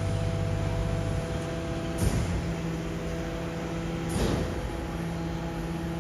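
Garbage truck's diesel engine running steadily, its note shifting about a second in, with a short hissing clunk about two seconds in and again about four seconds in.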